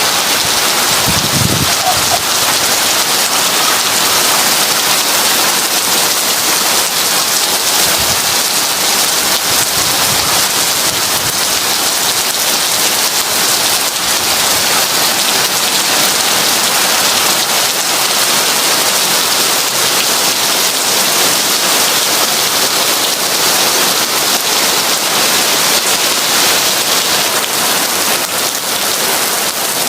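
Heavy rain falling steadily in a dense, even hiss, with a brief low rumble about a second in.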